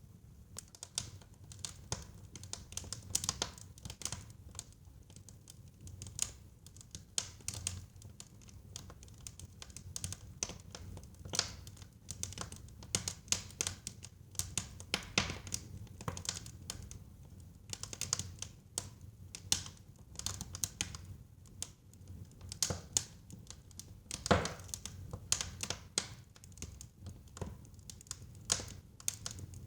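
Wood fire burning in a fireplace: irregular sharp pops and crackles over a low rumble of the flames, with one louder pop late on.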